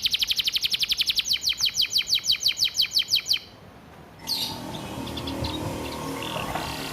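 Canary singing a fast, machine-gun-like trill of rapidly repeated downward-sweeping notes, about a dozen a second, for over three seconds. It stops abruptly, and after a short pause a softer, noisier passage with scattered high chirps follows.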